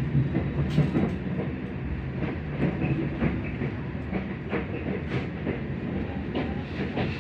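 Moving passenger train heard from inside the carriage: a steady low rumble of wheels on the rails, with irregular clicks and rattles throughout.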